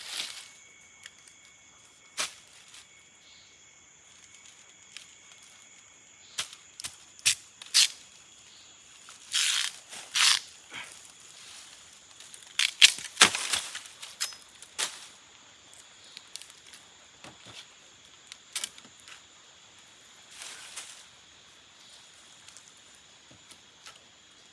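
Scattered sharp knocks, snaps and short rustling bursts of something being handled, over a steady high drone of insects.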